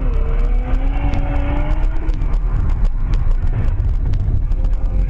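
A car's engine and road rumble, heavy and continuous. The engine note climbs gently over the first two seconds, then fades into the steady rumble.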